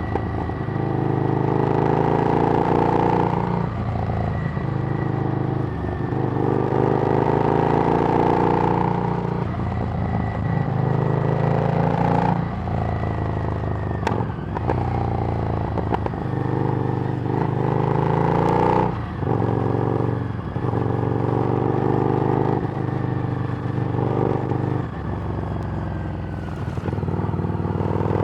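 Harley-Davidson Street Rod's V-twin engine running through a Screamin' Eagle exhaust while riding, its pitch climbing under throttle and dropping at each gear change, several times over.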